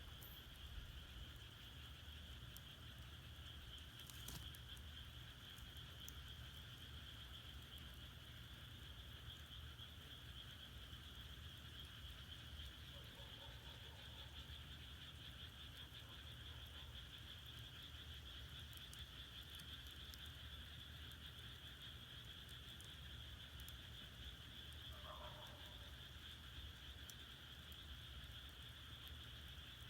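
Faint, steady chorus of frogs croaking in a continuous trill, with a few sharp crackles from burning firewood and a few short falling calls.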